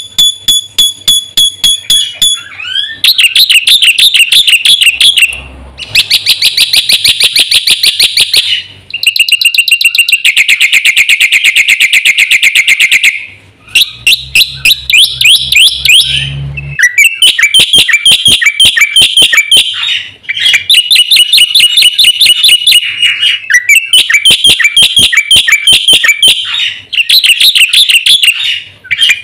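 Black-winged myna (jalak putih) singing loudly: long runs of rapid, repeated chattering notes, each run a few seconds long with short breaks between.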